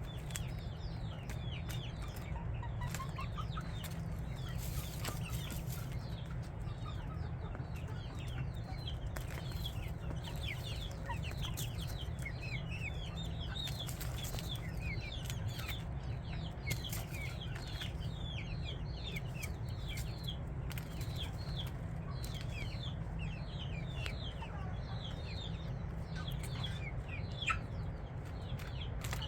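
A flock of chickens, mostly chicks, peeping continuously: many short, high, falling peeps overlapping several times a second, over a steady low hum.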